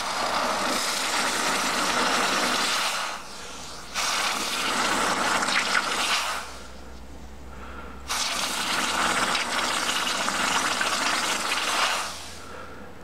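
Hot steel from a cut-off car towbar being quenched in water, sizzling and hissing three times as it is dipped in, lifted and dipped again: the first about three seconds long, the last about four seconds, ending near the end.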